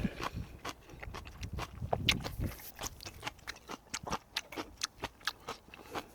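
A man eating close to the microphone: chewing and mouth smacks, a quick irregular run of wet clicks.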